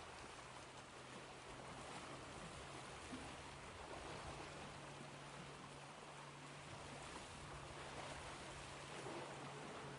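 Ocean waves washing in a soft, steady surf hiss that swells gently, with a faint steady low hum underneath.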